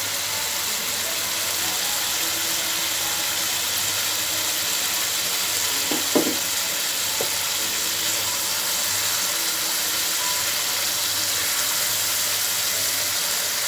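Thick masala gravy with mrigal carp steaks sizzling and bubbling in a frying pan as the fish is fried down in the spices: a steady hiss. A short pitched sound cuts in briefly about six seconds in.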